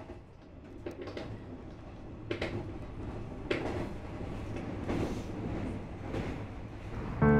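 Train running on rails, heard from inside the passenger car: a steady low rumble with irregular clacks from the wheels crossing rail joints, growing louder. Piano music comes in near the end.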